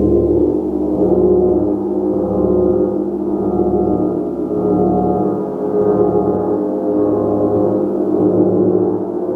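Large gong played continuously: a dense, sustained wash of many overlapping low tones that swells and ebbs every second or so.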